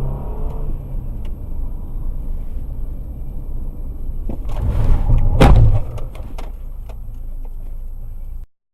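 Car road and engine rumble picked up by a dash camera, swelling about four and a half seconds in, with one loud bang of impact about a second later: a vehicle collision. A few smaller knocks follow before the sound cuts off abruptly near the end.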